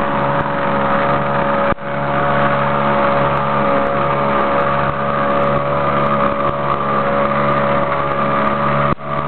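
Small outboard motor pushing a canoe, running steadily with water and wind noise under it. The sound dips briefly twice, about two seconds in and near the end.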